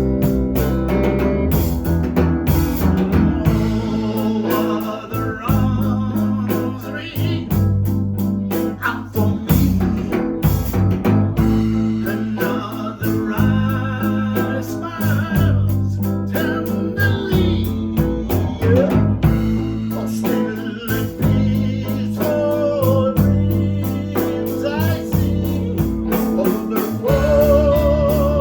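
Live blues band playing: guitar lines with bent, wavering notes over bass and drums keeping a steady beat.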